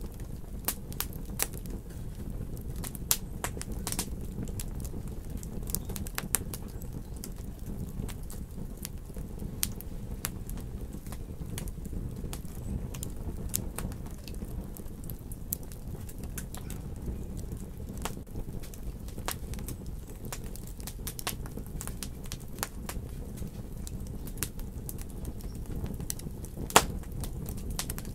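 Wood fire burning in a fireplace: a steady low rumble of flames with irregular sharp crackles and pops, and one louder pop near the end.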